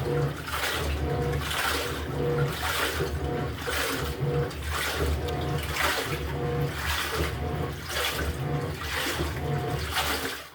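LG top-loading pulsator washing machine in its wash agitation: the motor hums in short alternating strokes, churning water and laundry in regular sloshing surges about one and a half times a second. The agitation stops just at the end.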